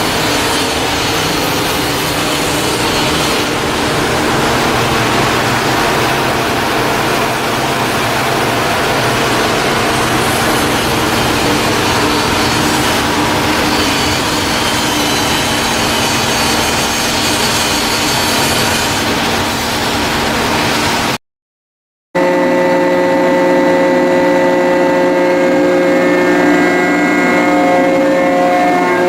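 Loud, steady machinery noise. About 21 seconds in it drops out for a second, then carries on as a steadier running machine with several held tones.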